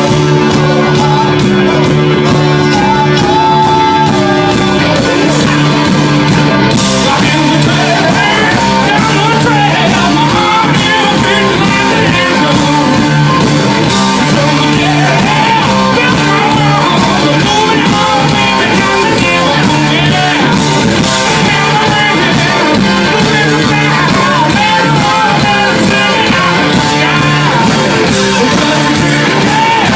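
Hard rock band playing live: loud guitars and drums with a singing voice over them.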